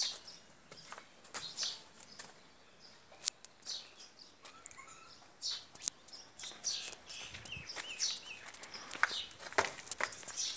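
Small birds chirping, with many short high calls repeating unevenly, and a few sharp clicks among them.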